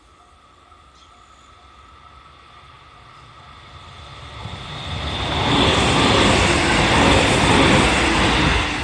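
Level-crossing warning bell ringing about twice a second, then a JR 313 series electric train approaches and passes close by, the noise of its wheels on the rails growing loud about five seconds in and drowning out the bell.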